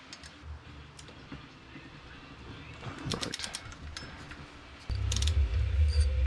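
A ratchet wrench clicks on the motorcycle engine, with a short rapid run of clicks about three seconds in. Near the end, loud background music with a heavy bass line comes on.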